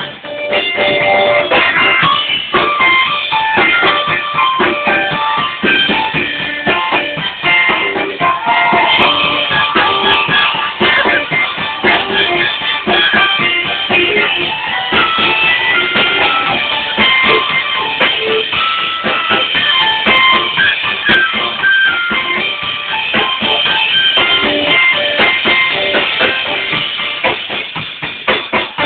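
A live soul-blues band playing an instrumental passage with no vocals: electric guitar and organ over a drum kit, with a steady beat.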